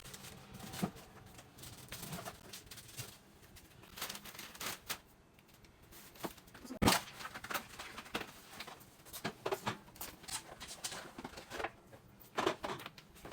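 Groceries being handled and put away in a fridge: scattered knocks, clicks and packaging rustle, with one louder knock about seven seconds in.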